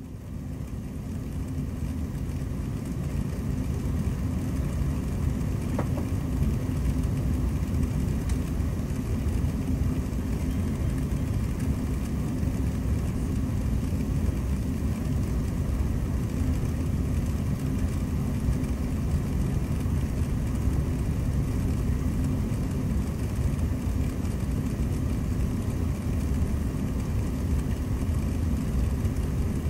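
Jet airliner engines spooling up to takeoff power, heard from inside the cabin: the noise builds over the first few seconds and then settles into a steady, loud, low rumble during the takeoff run.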